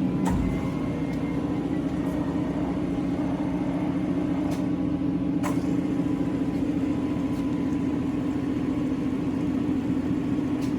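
Tru-Turn 75-inch heavy-duty engine lathe running on its 30 kW main motor: a steady mechanical hum, with a few faint ticks.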